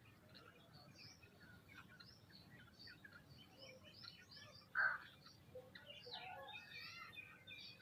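Faint chirping of several birds feeding, many short calls overlapping, with one brief louder call or sound about five seconds in.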